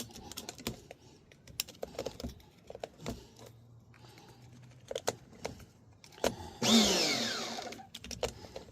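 Light clicks and handling knocks, then near the end a brief whir from the truggy's small nitro engine that falls in pitch over about a second as it winds down. The engine is not staying running, which the owner puts down to being out of fuel.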